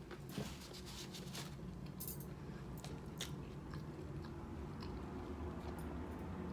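Close-up chewing and biting of a bacon cheeseburger, with wet mouth clicks and smacks mostly in the first three seconds. Underneath, an airplane passing overhead makes a low, steady drone that slowly grows louder.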